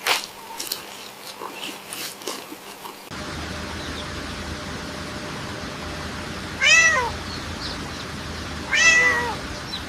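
Two drawn-out animal calls about two seconds apart, each rising then falling in pitch, over a steady hiss. Before them come light scattered clicks and rustles.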